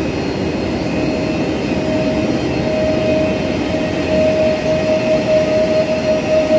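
Pesa Dart ED161 electric multiple unit pulling out of the platform: a steady rumble, with a steady whine that comes in about two seconds in and grows. It gets louder and pulses unevenly from about four seconds in as the cars pass.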